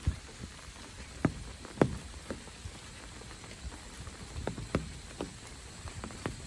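Rain: scattered heavy drops tapping at irregular moments over a steady hiss of rainfall.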